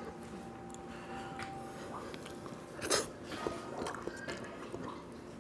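Close-miked chewing and mouth sounds of a person eating bakasi eel with the hands, with one louder sharp click about three seconds in.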